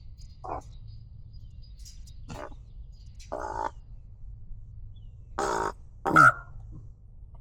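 A series of about five short, raspy animal calls, a few seconds apart; the loudest, about six seconds in, falls steeply in pitch.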